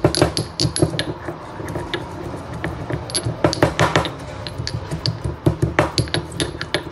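Pestle pounding whole garam masala spices in a mortar: quick hard knocks, several a second. They ease off and soften for a moment after the first second or so, then pick up again.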